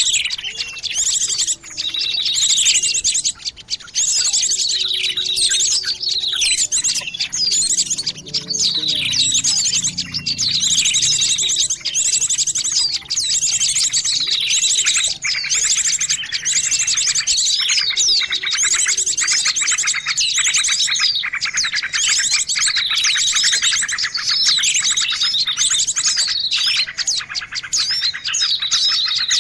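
Dense chorus of many small songbirds chirping and trilling without pause, fast high trills and falling chirps laid over one another: a bird-lure (pikat) recording made to call small birds in.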